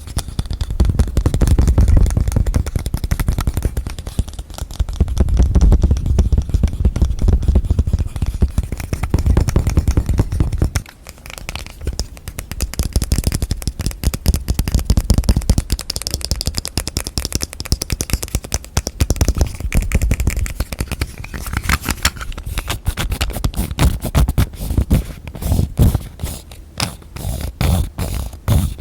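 Fast, continuous tapping on objects. It is deep and heavy for the first ten seconds or so, then after a short drop turns lighter and crisper, with quick separate taps near the end.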